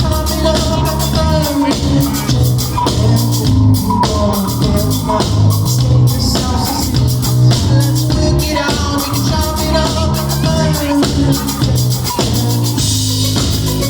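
Live band playing loud, with a steady drum-kit beat, bass and a moving melody line over it.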